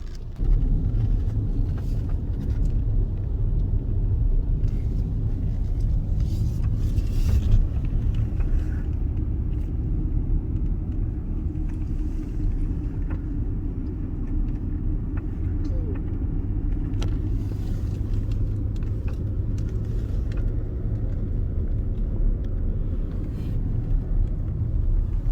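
Road and engine noise heard inside a moving car: a steady low rumble that starts abruptly less than half a second in, with a few faint clicks.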